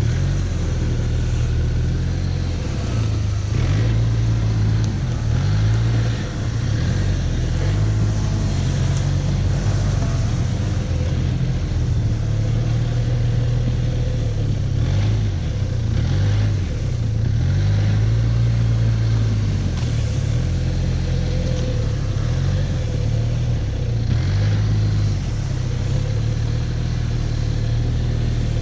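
2019 Arctic Cat Norseman 3000 snowmobile's four-stroke engine running under load while breaking trail through deep snow. Its pitch rises and falls gently with the throttle.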